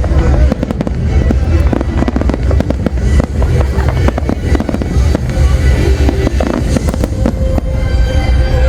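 A fireworks display firing non-stop: a rapid, dense run of bangs and crackles over a continuous deep rumble.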